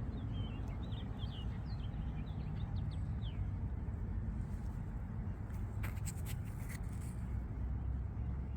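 A small bird chirping, a quick series of short high notes in the first three and a half seconds, over a steady low rumble, with a few faint clicks later on.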